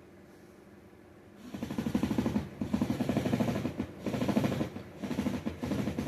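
Power driver running screws into the recliner's frame in five bursts of fast rattling, starting about a second and a half in.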